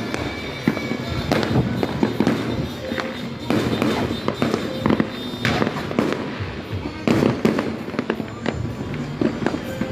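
Fireworks and firecrackers going off: a dense, irregular run of sharp bangs and crackles throughout.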